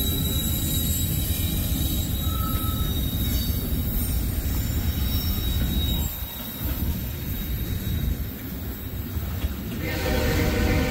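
Freight train rolling past: a steady low rumble of wheels on rail, with a thin high wheel squeal in the first half and the rumble easing off a little after about six seconds. A locomotive air horn starts sounding about a second before the end.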